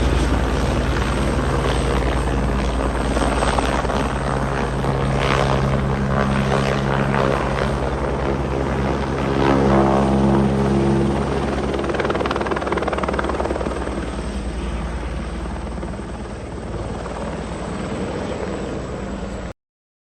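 Helicopter flying, its rotor beat and engine loud and steady, slowly growing quieter. The sound cuts off abruptly near the end.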